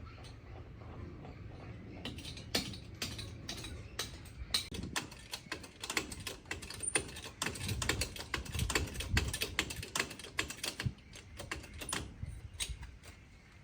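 An irregular run of quick, sharp clicks and light taps, several a second, starting about two seconds in and thinning out near the end, over a low background hum.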